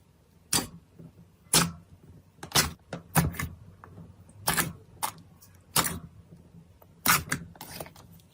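Slime being handled and pressed, giving sharp crackling pops about once a second, nine in all.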